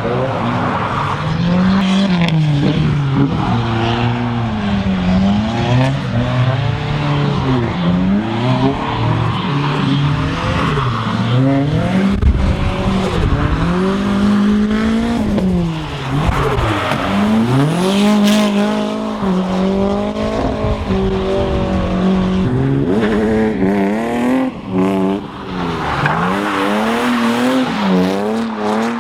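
Drift cars' engines revving hard on a wet track, pitch swinging up and down every second or two and at times held high, with tyre noise underneath.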